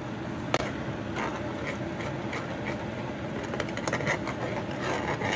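Teriyaki and pineapple sauce bubbling in a frying pan over a steady low rumble, with a series of light clicks and taps of a metal fork against the pan. The sharpest click comes about half a second in.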